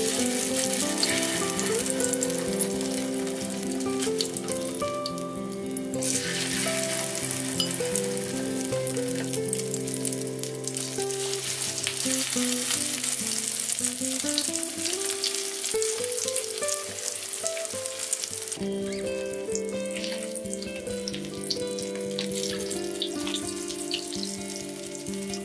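Flour-and-egg-coated crab stick and ham skewers sizzling as they pan-fry in hot oil. The sizzle starts as the first skewer goes into the pan and fills in again about six seconds in, over background music with held notes.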